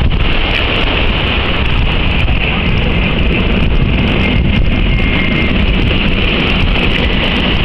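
Boeing 747-400's four turbofan engines running on final approach, a loud steady jet roar with wind buffeting the microphone.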